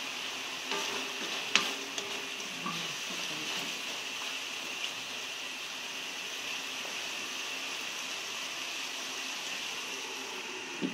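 Ground pork simmering in soy sauce and oyster sauce in an aluminium wok, sizzling steadily, with a few sharp knocks of the spatula against the pan. Near the end a glass lid is set on the wok.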